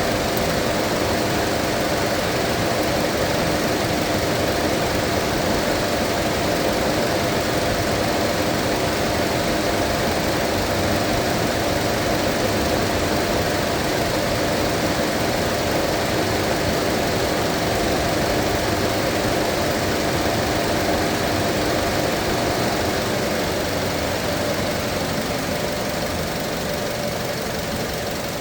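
Mazda 2.5 engine running steadily while its cooling system is being bled of air (burped), getting slightly quieter about 23 seconds in.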